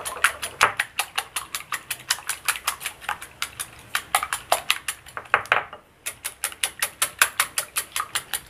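Wire whisk beating raw eggs in a glass bowl, its metal wires clicking against the glass in a fast, even rhythm of about five or six strokes a second. The whisking stops for about half a second just past halfway, then carries on.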